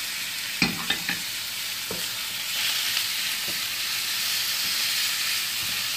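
Chicken pieces sizzling in hot oil in a wok, stir-fried with a metal spatula. A few sharp scrapes and taps of the spatula on the wok come about a second in and again at two seconds, and the sizzle grows louder after that.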